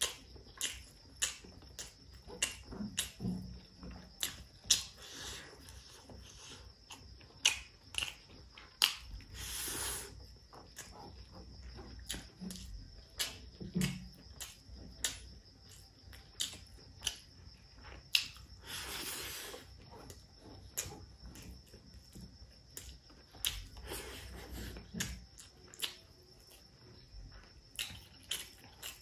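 Close-up eating sounds: wet chewing and lip smacks, many sharp clicks, with rice being squeezed and mixed by hand on a tray. Two longer hissing sounds come about nine seconds in and again about nineteen seconds in.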